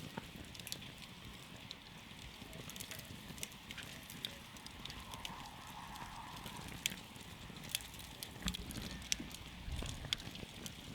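Wood campfire burning, crackling with frequent irregular sharp pops and snaps over a steady soft hiss.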